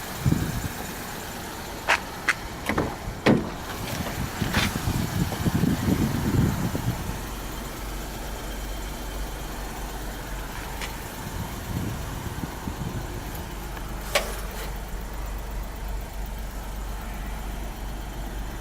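Suzuki Carry DB52T kei truck: several sharp clicks and knocks in the first few seconds, an uneven low rumble, then its 660 cc three-cylinder petrol engine idling steadily from about seven seconds in, with another click around fourteen seconds.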